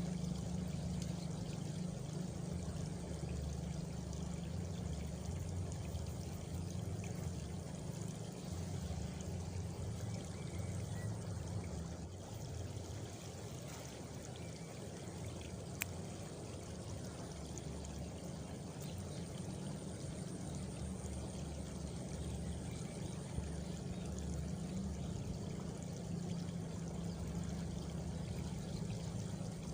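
Steady outdoor nature ambience of running, pouring water, with a faint high insect trill, typical of a cricket, partway through and a single sharp click.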